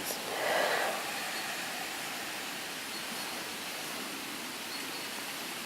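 Steady outdoor background hiss, with a brief louder rush of breathy noise about half a second in.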